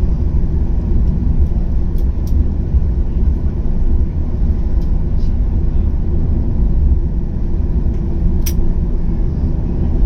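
Steady low rumble of a Boeing 737-800 airliner's CFM56 turbofan engines and airframe, heard from inside the cabin, with a few faint clicks.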